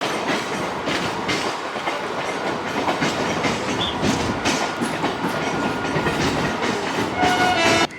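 Train running close by on the track, its wheels clattering over the rail joints, with a brief steady high tone near the end before the sound cuts off suddenly.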